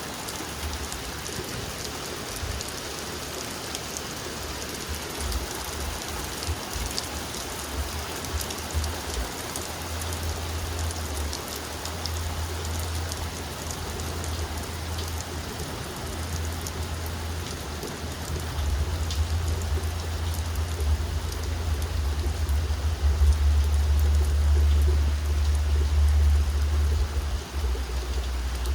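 Heavy rain falling and pattering on surfaces in a steady hiss, with scattered drop clicks. A low rumble swells underneath from about ten seconds in and is loudest in the second half.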